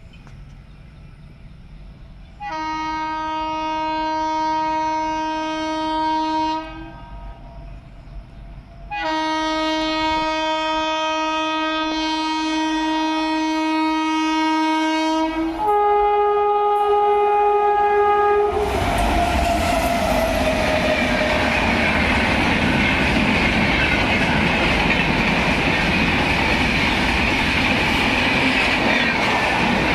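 Indian Railways electric locomotive sounding its horn in two long blasts and then a shorter, higher-pitched one. Then a train rushes past at speed, its wheels clattering over the rail joints.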